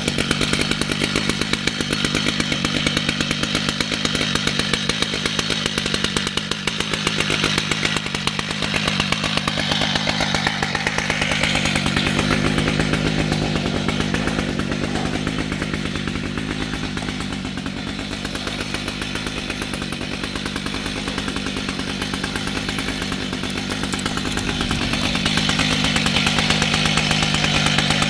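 Chainsaw engine running steadily under load while milling a red oak log lengthwise, the chain cutting through the wood.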